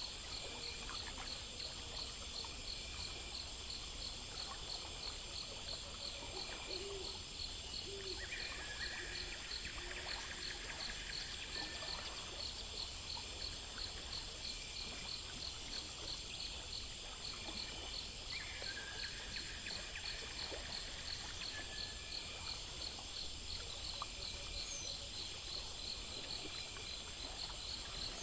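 Night ambience of insects chirping in steady, fast, even pulses, several layers at once, over a constant low rumble. Two short calls stand out over the chirping, about a third of the way in and again about two thirds in.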